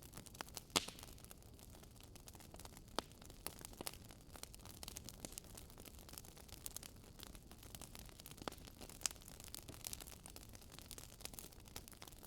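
Wood fire crackling: irregular small pops and snaps, a few of them louder, over a faint steady hiss.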